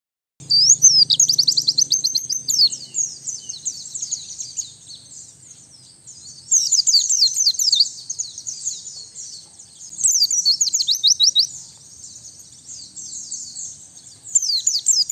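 White-eye (pleci) song: rapid, high twittering warbles in four loud bursts of a couple of seconds each, with softer twittering between them.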